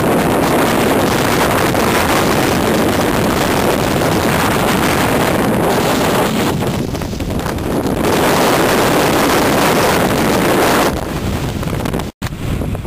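Stormy sea: surf surging and breaking under strong wind, with heavy wind noise on the microphone. The noise swells twice and eases about eleven seconds in, followed by a brief cut-out.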